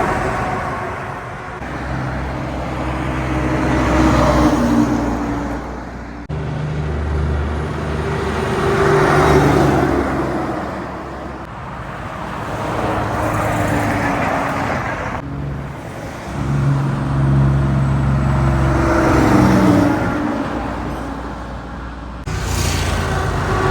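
Heavy diesel trucks passing one after another, each engine and its tyre noise swelling up and fading away. The sound cuts off suddenly three times between passes.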